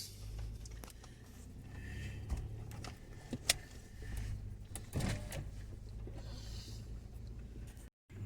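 A car's power window running, over the steady low hum of the car's cabin, with a sharp click about three and a half seconds in.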